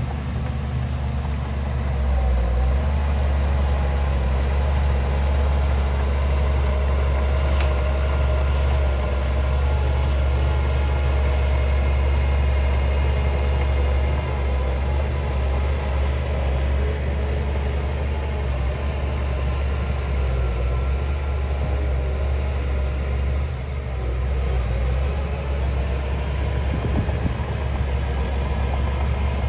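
Heavy diesel engine of earthmoving machinery running steadily with a deep low hum, dipping slightly in level about two-thirds of the way through.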